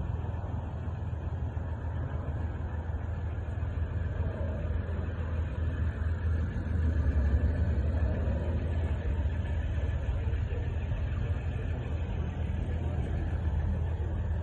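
Steady low rumble of the 2015 RAM 1500 pickup running.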